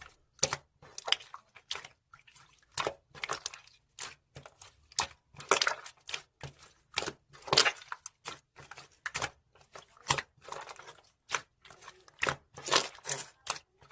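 Slime being squished and pressed by hand, giving irregular crackly, squelchy pops and clicks, a few each second.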